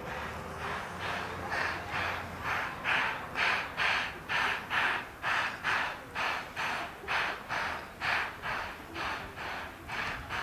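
Steam exhaust chuffs of a JNR Class C11 steam tank locomotive working under steam, about two chuffs a second in an even beat that grows louder and sharper over the first couple of seconds.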